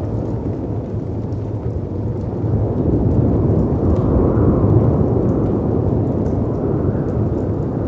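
Layered storm ambience: deep rushing wind and sea surf that swells a few seconds in, with faint fireplace crackles ticking over it.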